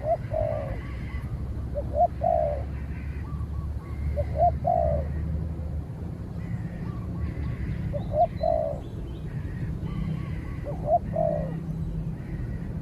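Spotted dove cooing: a short two-part coo phrase, repeated about every two to three seconds, five times.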